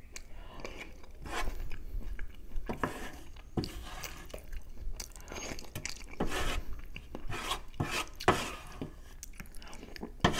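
Close-miked eating of spaghetti bolognese: chewing and wet mouth smacks, with wooden utensils scraping and tapping on a metal baking tray to gather the last of the sauce.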